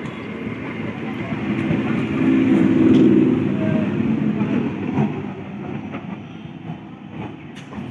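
Electric suburban local train (EMU) running past at close range, with a steady hum among the rumble. The sound builds to its loudest about three seconds in as the last coaches go by, then fades as the train pulls away.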